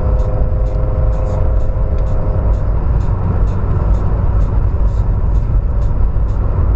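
Car engine running with a steady low rumble, and a higher steady drone over it that fades out a little under halfway through.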